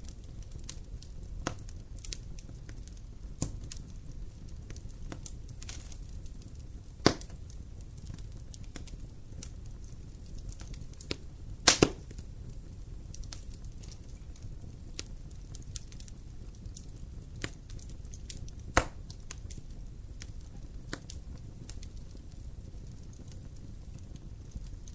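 Wood fire crackling in a fireplace: scattered sharp pops and snaps over a low steady rumble. The loudest snaps come about seven seconds in, as a quick double pop near the middle, and once more a few seconds later.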